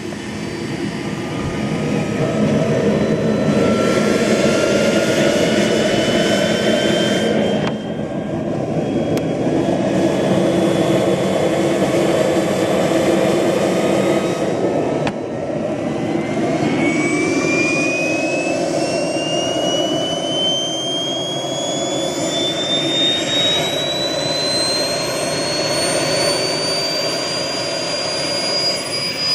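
Twin JC Cheetah model jet turbines in an RC F-14 starting up, running with a loud roar. A turbine whine rises in pitch early on as one turbine spools up, and a second, stronger rising whine begins about halfway through as the other turbine spools up.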